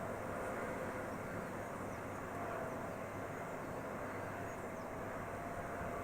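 Steady jet aircraft engine noise with a faint whine through it, and a few faint bird chirps.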